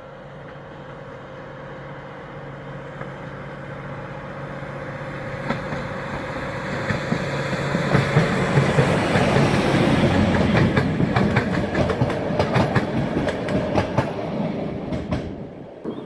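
Train approaching and passing, growing steadily louder with a low hum, then wheels clicking rhythmically over the rail joints for several seconds as the wagons roll by. The sound drops away abruptly near the end.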